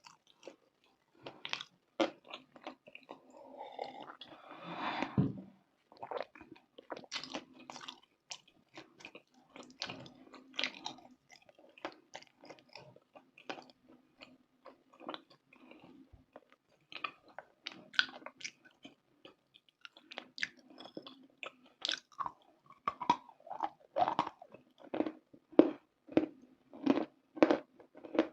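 Close-miked crunching and chewing of a hard, brittle snack: many short, sharp crunches, settling into a steady chewing rhythm near the end.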